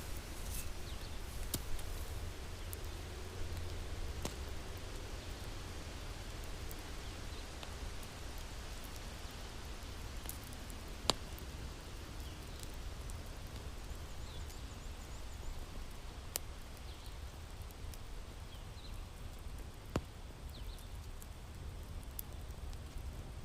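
Wood fire crackling in a fireplace: a steady low rumble with scattered sharp pops, the loudest about halfway through and another near the end.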